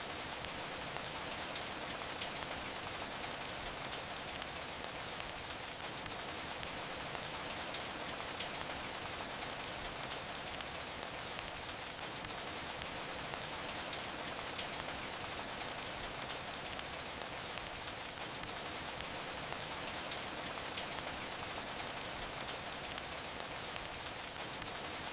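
Steady rain hiss, with sharp pops from a crackling fireplace scattered irregularly through it.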